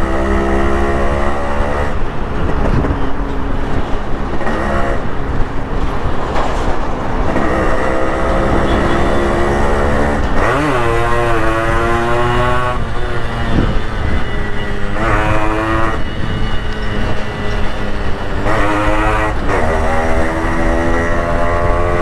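Yamaha RX100's two-stroke single-cylinder engine and exhaust on the move, revving up and easing off several times, with rising and falling pitch.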